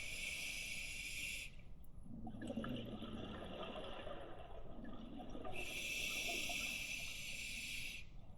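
Scuba diver breathing through a demand regulator underwater: a hissing inhalation, then a long exhalation of bubbling, rumbling bubbles, then another hissing inhalation about five and a half seconds in.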